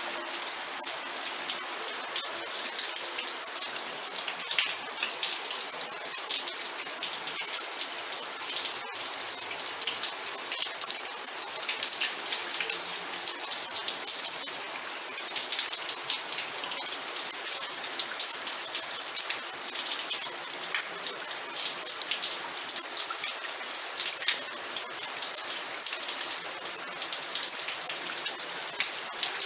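Steady rain falling, with dense, crisp raindrop patter on a surface.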